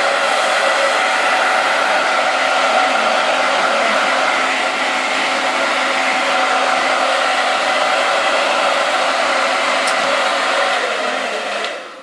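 Hair dryer blowing steadily, drying a rooster's wet feathers, then winding down and stopping near the end.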